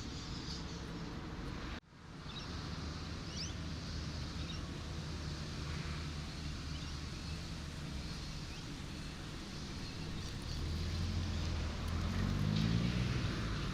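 Road traffic ambience: steady vehicle engine and tyre noise, with a louder vehicle's engine note rising in the last few seconds. The sound cuts out briefly about two seconds in.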